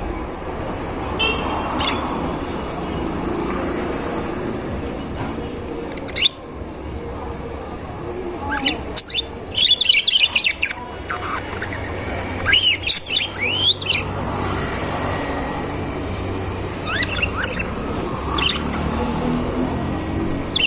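Budgerigars chirping and warbling in quick bursts of high, rapidly bending notes, loudest in the middle, over a steady low background hum, with a single sharp knock near the start of the first third.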